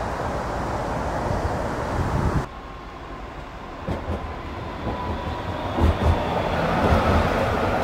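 Train running on rails, a dense rumble that drops off abruptly about two and a half seconds in. Then comes a quieter stretch with a faint steady whine and a few low wheel thumps, building again as a train comes closer.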